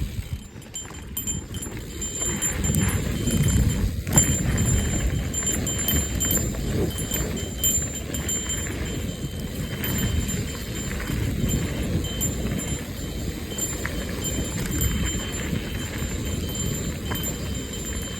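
Mountain bike rolling down a dirt trail: a low rumble of wind and tyres, with a trail bell on the handlebars tinkling over and over as the bike bounces.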